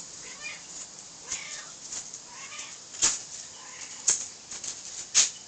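A small bird chirping faintly several times, typical of a bird calling near its nest while a cat is close by, with three sharp clicks in the second half.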